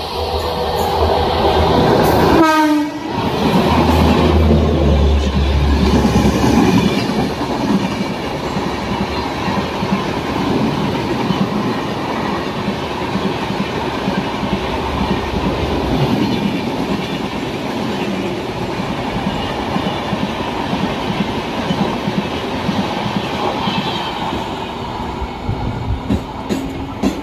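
An express train runs past at speed. A horn fades out at the start, a falling whoosh comes about two to three seconds in as the locomotive goes by, and then the coaches give a long, steady rumble and clatter of wheels over the rails.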